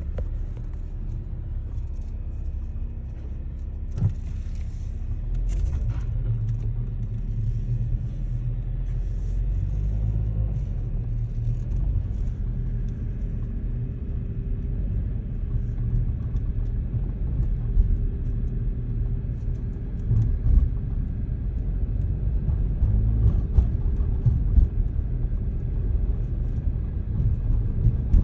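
A car on the move with a steady low rumble, and a few sharp knocks or clacks now and then, about four seconds in and again after twenty seconds. This is the abnormal noise from the rear of the car.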